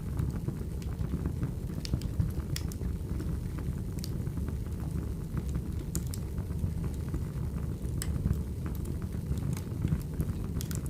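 Firewood burning: a steady low rushing noise with scattered sharp crackles and pops throughout.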